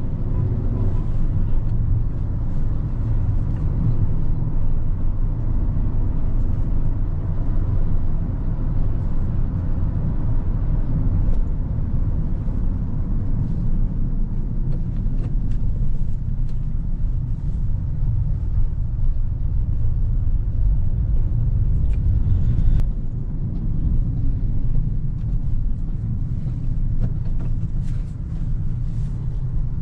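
2024 Hyundai Creta's 1.5-litre petrol engine and tyres heard from inside the cabin on the move: a steady low rumble of engine and road noise. A single sharp click comes about three-quarters of the way through.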